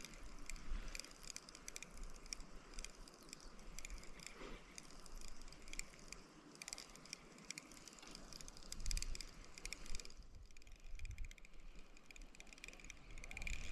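Spinning reel being cranked to retrieve a Rooster Tail spinner, a fast steady ticking whir.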